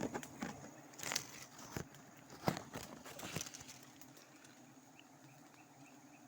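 Half a dozen clicks, knocks and rustles of handling in the first four seconds, over the steady low hum of honeybees. A faint insect chirp repeats evenly in the last few seconds.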